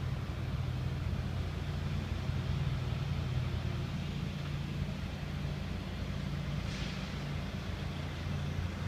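Heavy diesel truck engine idling steadily, with a brief hiss about seven seconds in.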